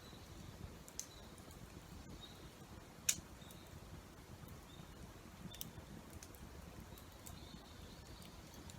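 Campfire crackling faintly: a few scattered sharp pops of burning wood over a low steady rumble, the loudest pop about three seconds in.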